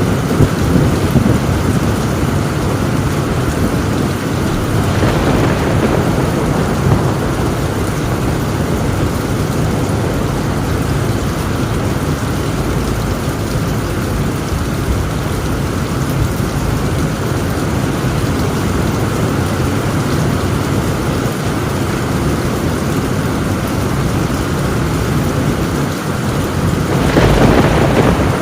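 Heavy rain falling on a tin roof under a continuous low rumble of thunder. The thunder swells louder about five seconds in and again near the end.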